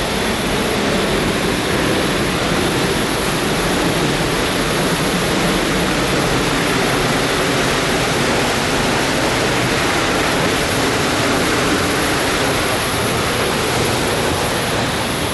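Steady, unbroken rush of falling water from a waterfall, with a thin high steady tone running over it.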